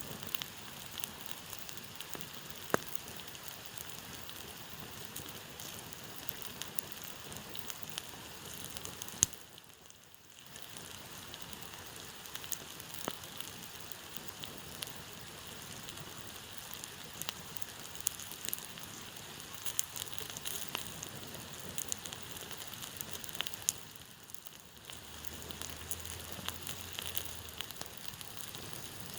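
Campfire burning: wood crackling with frequent sharp pops over a steady hiss, with a louder snap about nine seconds in and another near twenty-four seconds.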